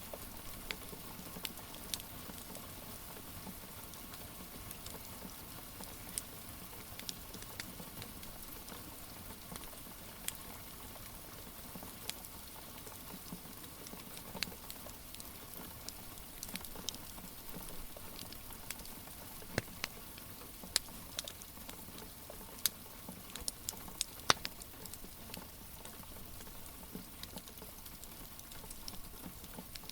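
Steady patter of rain with a wood fire crackling over it: scattered sharp pops and snaps, coming thickest a little past the middle.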